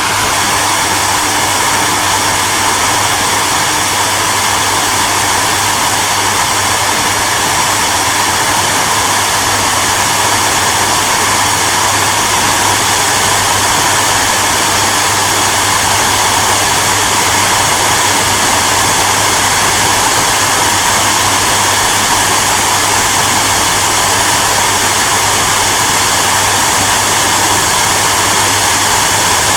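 Hair dryer running steadily: a constant whoosh of blown air over a low motor hum, with no change in speed.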